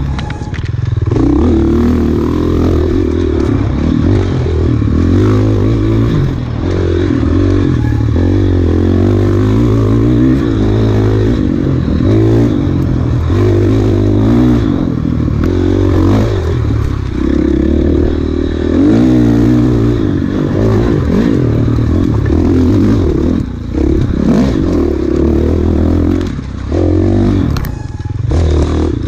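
Enduro dirt bike engine being ridden hard, its pitch rising and falling with the throttle, with a few brief drops as the throttle closes.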